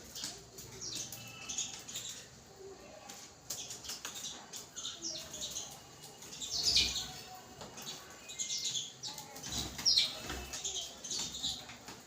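House sparrows chirping in many short, sharp, downward-sliding notes, busiest about halfway through and again near the end, with scattered short taps and wing flutters among them.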